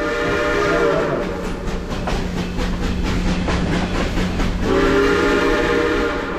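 Steam locomotive whistle blowing two long blasts, the first about a second long and the second starting near the end, with quick rhythmic puffing from the engine in between.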